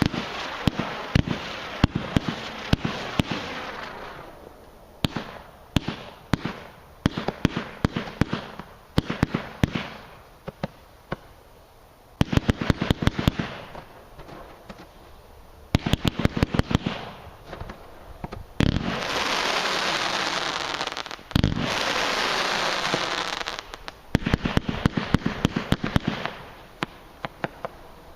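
Solar Wind consumer firework going off: volleys of sharp pops and crackles, several a second, with short lulls between them and a stretch of steady hissing about two-thirds of the way through.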